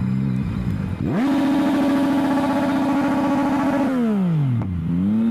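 Motorcycle engine revving: it climbs steeply in pitch about a second in, holds a high steady note for nearly three seconds, then falls away, with one more short rise and fall near the end.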